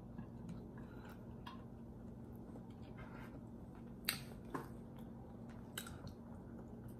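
A person chewing food close to the microphone, faint, with a few short wet mouth clicks, the sharpest about four seconds in and again near six seconds.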